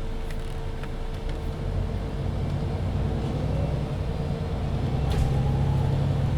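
MAN Lion's City 19C EfficientHybrid articulated city bus heard from on board, pulling away. A low engine rumble builds about two seconds in, and a faint rising whine climbs toward the end as the bus gathers speed, over a steady hum. There are a few light clicks and rattles.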